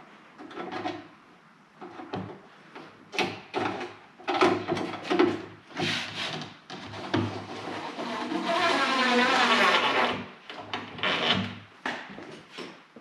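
Wooden parts and tools being handled: scattered knocks and rubbing, with a steady whirring sound lasting about a second and a half, about eight seconds in.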